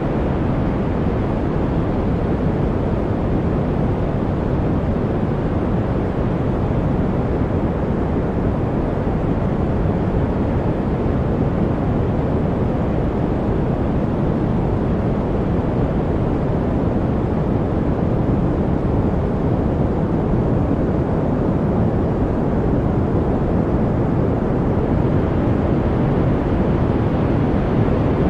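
Steady, unchanging noise track played for studying, billed as white noise. It has no breaks or events, and most of its energy sits in the low end, so it sounds like a deep, even rush rather than a bright hiss.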